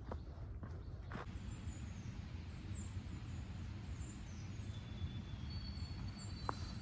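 Faint songbirds chirping in short high notes over a low background rumble, with a thin steady high note coming in near the end. Two footsteps sound in the first second or so.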